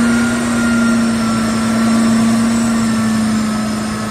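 A vehicle running steadily, a loud even drone over a wash of mechanical noise.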